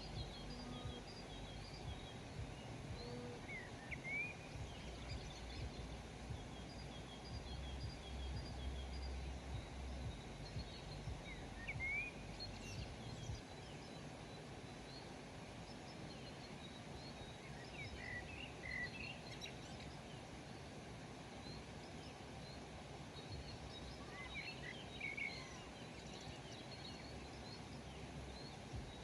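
Small birds calling: faint high twittering throughout, with clusters of short rising chirps every few seconds, over a steady low background rumble.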